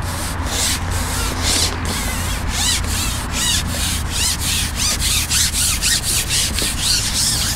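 Quick, rhythmic rubbing strokes, about three a second, over a steady low hum.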